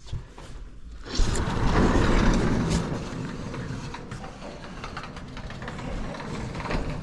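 The door of an animal shed being opened: a loud rumble starts about a second in and eases off into a steadier, quieter rumble.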